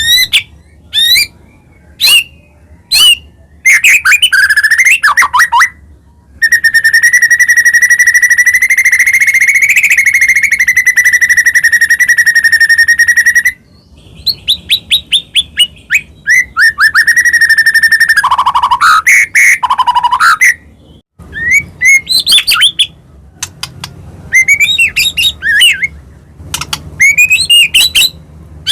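White-rumped shama (murai batu) singing a loud, varied song: short sharp whistled notes and rapid sweeping phrases, with a long trill held at one pitch for about seven seconds near the middle.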